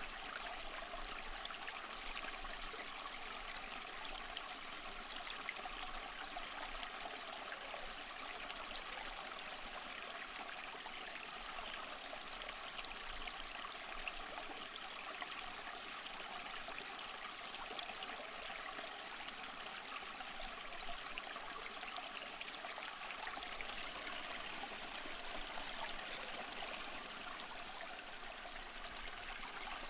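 Stream water running steadily over stones, a continuous even rush of flowing water.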